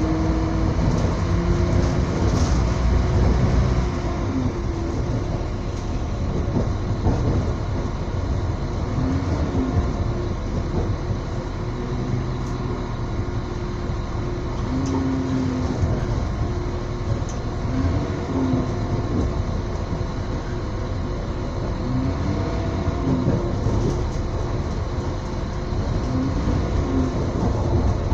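Passenger train running, heard from inside the carriage: a steady rumble of wheels on the rails, with a faint tone that rises and falls now and then.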